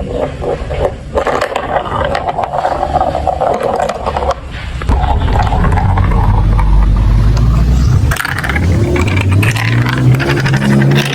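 Marbles rolling and rattling along plastic marble-run tracks, with many small clicks over a scraping rumble that grows louder about five seconds in.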